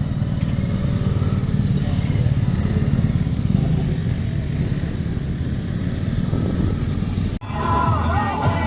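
Steady low rumble that cuts off suddenly about seven seconds in, followed by music.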